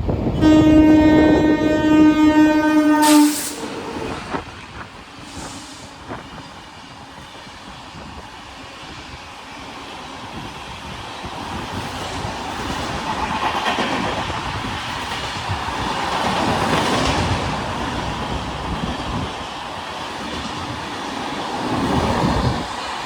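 Locomotive horn sounding one long blast of about three seconds that cuts off sharply, followed by the train running through the station, with a steady rolling rattle and wheel clatter that builds and swells as the coaches pass.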